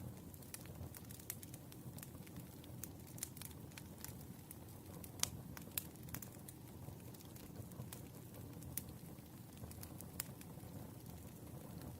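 Wood fire crackling: a low steady rumble of burning logs with irregular sharp pops and snaps, one louder pop about five seconds in.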